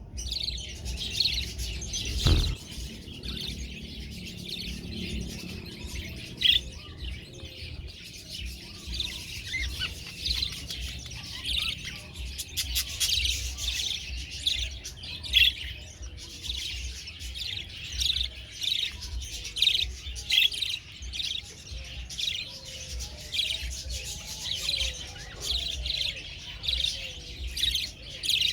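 Budgerigars chirping continuously, many short overlapping calls from several birds, with a low thump about two seconds in.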